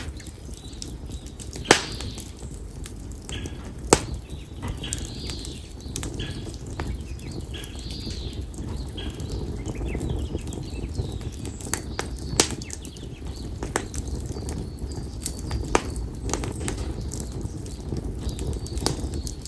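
Split konara oak firewood burning in an open fire: a steady low rush of flames with sharp crackles and pops, the two loudest about 2 and 4 seconds in. A bird calls repeatedly in the background during the first half.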